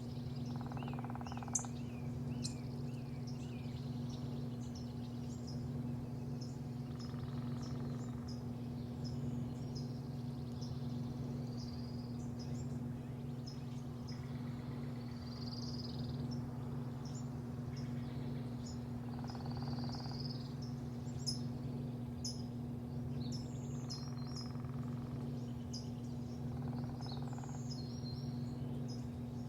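Small birds chirping again and again over a steady low mechanical hum.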